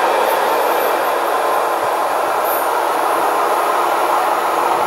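Train rolling by on the rails out of view: a steady rushing noise of wheels on track.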